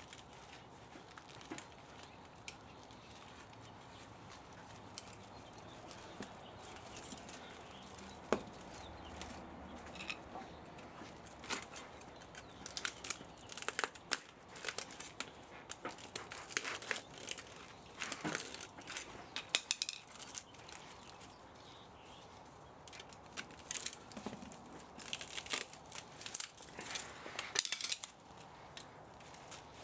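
Irregular clicks, scrapes and crinkling rustles of metal parts and wire being worked by hand while the spa motor is taken apart, busiest from about a third of the way in until near the end.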